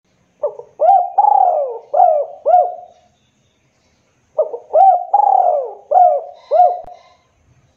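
Derkuku dove cooing: two phrases of about five rising-and-falling coos each, with a pause of just over a second between them.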